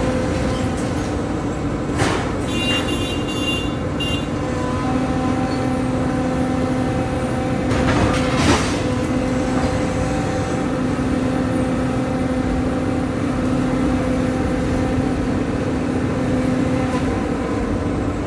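Excavator's diesel engine running steadily under load with a hydraulic whine, with a crunch of demolition debris about two seconds in and another about eight seconds in, and a brief high squeal around three seconds in.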